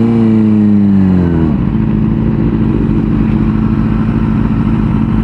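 A 600 cc sport bike's inline-four engine holds its revs, then drops about a second and a half in and settles to a steady idle.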